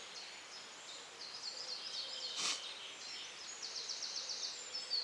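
Dawn birdsong: several small songbirds singing at once with high, quick notes, including a fast trill about three and a half seconds in. A brief rustle about halfway through.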